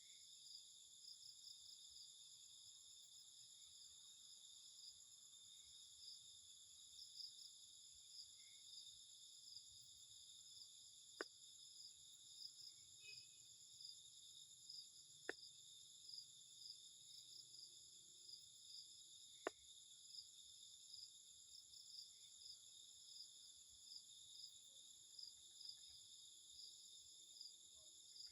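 Faint, steady high-pitched chirring of crickets or similar insects, with three sharp clicks spaced about four seconds apart partway through.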